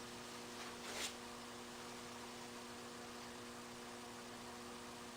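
Steady low electrical mains hum with faint hiss, with a brief rustling noise about a second in.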